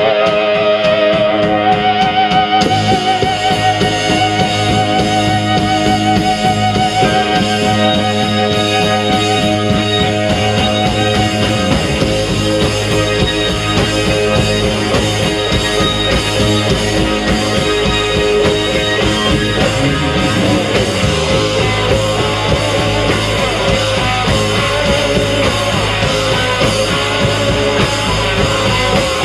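A rock band playing live: electric guitars and drums, with sustained wavering guitar notes at the start and the full band coming in after a couple of seconds.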